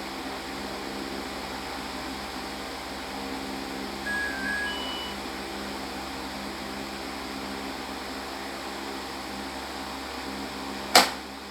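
Toy arisan lottery machine running, its small motor humming steadily, with a short electronic beep about four seconds in. A single sharp click near the end.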